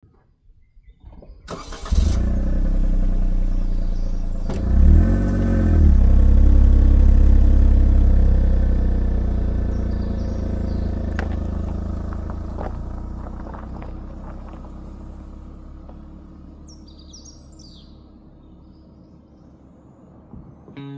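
A car engine starts about two seconds in, revs briefly, then runs steadily and slowly fades away. A few bird chirps come near the end.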